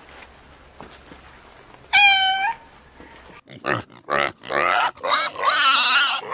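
A domestic cat gives one short meow about two seconds in. From about three and a half seconds in, another animal makes a run of loud squeals and grunts.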